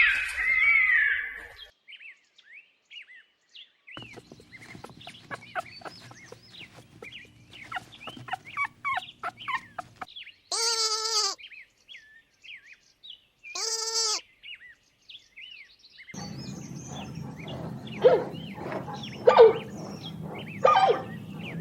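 A series of animal calls: birds chirping, two short, strongly pitched bleat-like calls about three seconds apart, then more chirping with several louder calls near the end.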